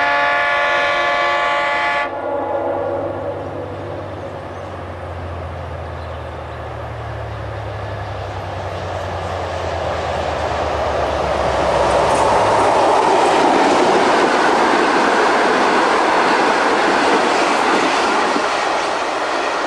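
Diesel locomotive horn sounding one loud chord for about two seconds, cutting off sharply. The low throb of the locomotive's diesel engine follows as it approaches, then the rolling noise and wheel clatter of the passenger carriages running past on the rails grows loud about twelve seconds in.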